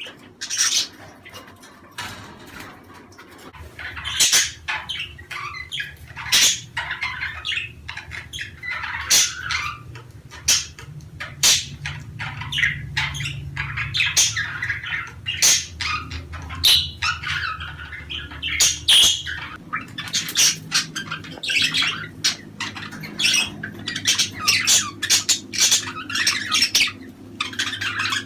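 A flock of budgerigars chattering: a continuous jumble of sharp chirps, squawks and warbles from many birds at once, over a low steady hum.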